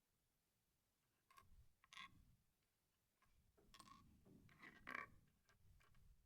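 Faint clicks and short rattles of small plastic Lego pieces being handled, a couple about a second apart and then a busier cluster a little over halfway through.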